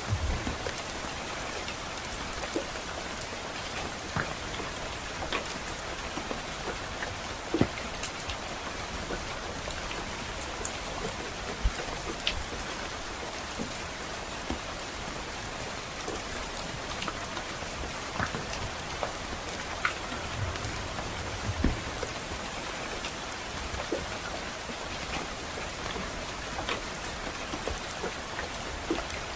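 Steady rain falling on a surface, with scattered sharp pops and ticks and a brief low rumble about twenty seconds in.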